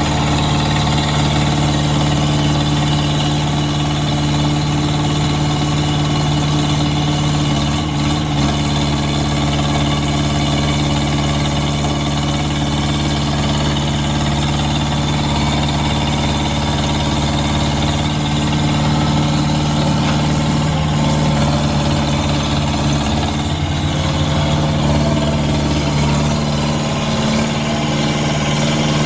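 Thomas 153S skid steer loader's engine running steadily at idle.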